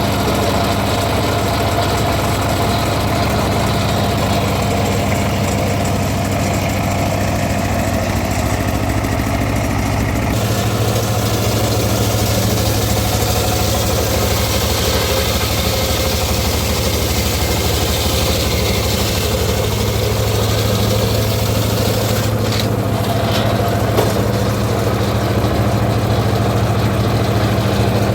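Engine of a homemade circular-saw timber rig running steadily. Its sound shifts about ten seconds in, and there is a brief click near the end.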